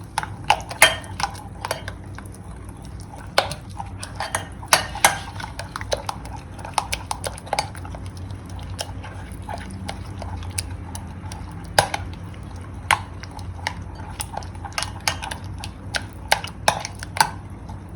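An egg being beaten into a milk-and-yeast mixture in a mixing bowl: a utensil clinks irregularly against the side of the bowl as the liquid is stirred, with some louder knocks among the quicker taps.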